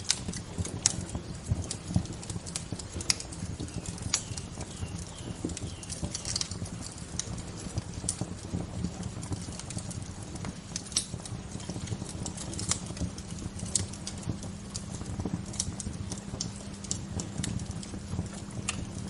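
Wood fire crackling, with sharp irregular pops and snaps, several a second, over a steady low rumble.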